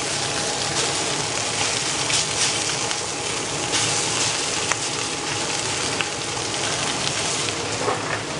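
Food sizzling in a frying pan: a steady frying hiss with scattered small crackles.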